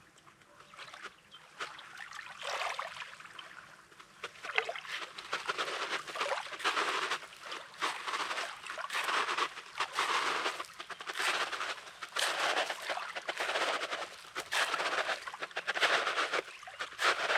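Small waves lapping and washing over a pebbly shoreline, a gentle crackling wash that grows louder and busier after the first few seconds.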